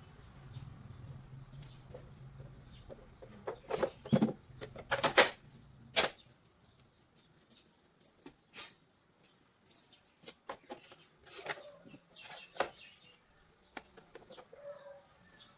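Irregular clicks, taps and light rattles of small hard parts being handled, loudest in a cluster between about three and six seconds in, over a low hum that stops about six seconds in.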